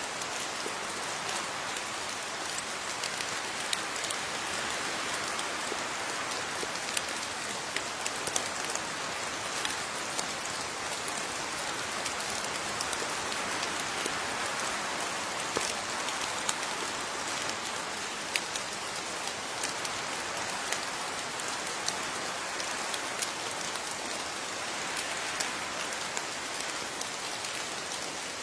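Steady rain falling, with many individual drops tapping sharply on a surface over an even hiss.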